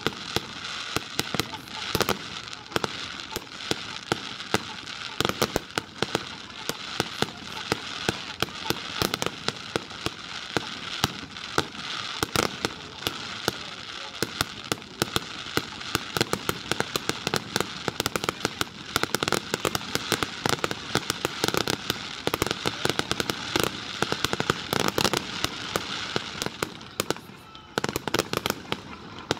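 Aerial fireworks display: a dense, continuous barrage of shell bursts, many bangs a second over steady crackling, with no let-up.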